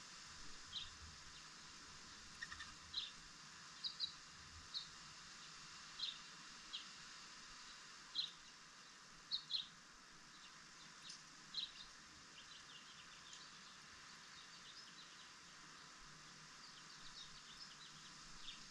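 Small birds chirping: short, high chirps come irregularly, several close together in the first half and a run of fainter ones near the end, over a steady background hiss.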